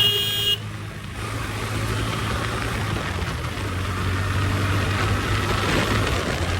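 Motorcycle engine running steadily at low revs, with wind and road noise over it. A brief high-pitched tone sounds right at the start.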